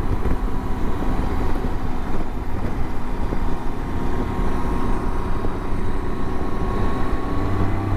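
Motorcycle cruising at steady highway speed: a constant engine drone mixed with rushing wind noise.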